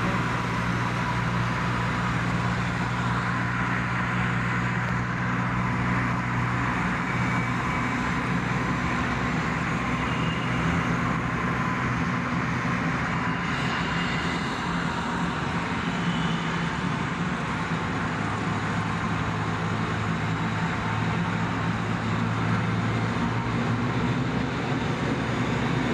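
Steady road and engine noise of a car driving through a road tunnel, a constant low hum with a faint steady high tone over it.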